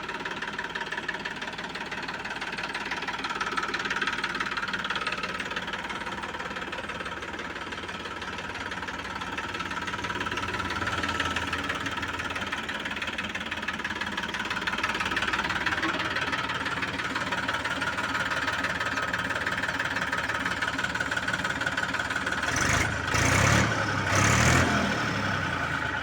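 New Holland 3230 tractor's diesel engine running steadily at idle, with two brief louder surges near the end.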